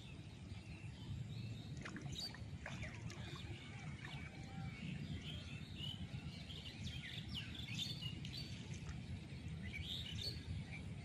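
Small birds chirping, many short calls coming and going, over a steady low background noise.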